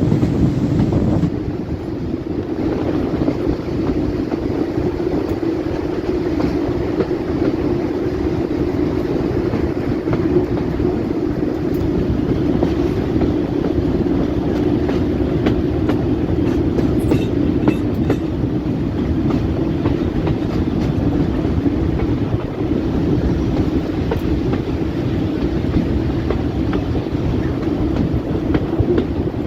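Heritage diesel locomotive with its train, the engine holding a steady drone.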